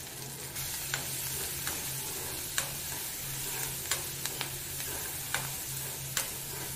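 Chopped onion, green chillies and curry leaves sizzling in hot oil in a kadai while a metal spoon stirs them. The spoon clicks and scrapes against the pan about once a second over the steady sizzle.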